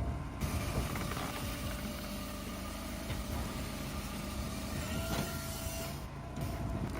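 Cord King M1820 firewood processor running: steady engine and machinery noise with a constant hum. The sound brightens about half a second in and dips briefly around six seconds in.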